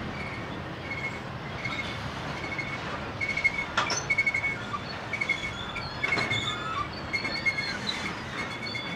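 Intermodal freight cars rolling past on the rails: a steady rumble of wheels on track with short, high wheel squeals repeating about twice a second. There are more scraping squeals from about three and a half seconds in, and clanks about four and six seconds in.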